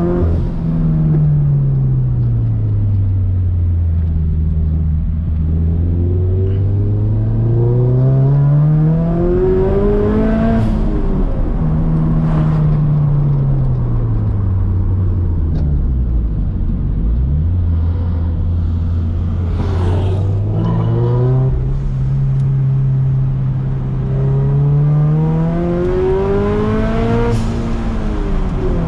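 Turbocharged Scion FR-S flat-four engine driven hard on a twisty road. It revs up repeatedly under acceleration and drops back as the driver lets off and brakes for corners, with a few short sharp noises near some of the rev peaks.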